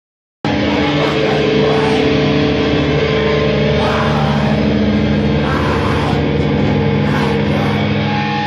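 Grindcore band playing live: loud, heavily distorted electric guitars and bass with dense noise above, cutting in abruptly about half a second in from silence.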